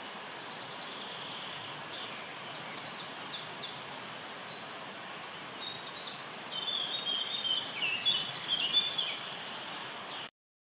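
Songbirds singing in rapid repeated trills over a steady background hiss; the sound cuts off abruptly near the end.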